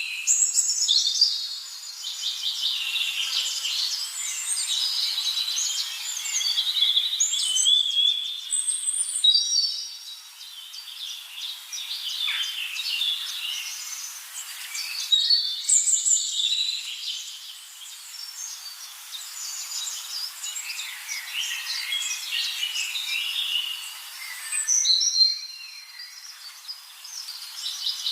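Several songbirds chirping and singing at once, quick overlapping calls and short whistled phrases over a steady high hiss. The chorus breaks off abruptly for a moment and resumes three times.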